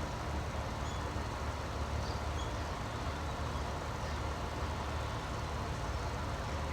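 A few faint, short bird chirps over a steady low rumble and hiss.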